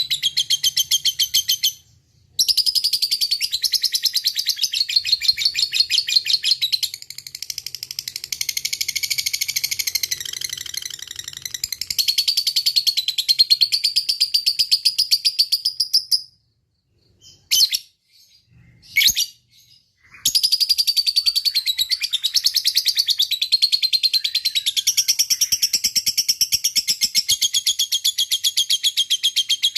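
Lovebird 'ngekek panjang': a long, very rapid, high-pitched chattering trill sung in extended runs. It breaks off briefly about two seconds in, and again for about four seconds past the middle, where only two short chirps sound before the trill resumes.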